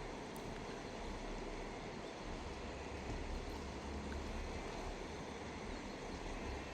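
Steady rushing noise of a river, with a low rumble that rises and falls.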